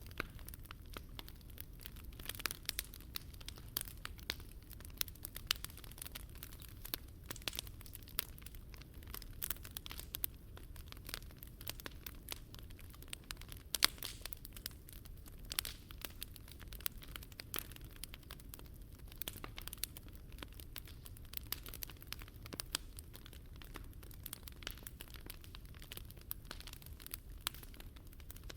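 Campfire crackling steadily in a Picogrill 398 fire stand: dense sharp pops and snaps from the burning wood over a steady low rumble.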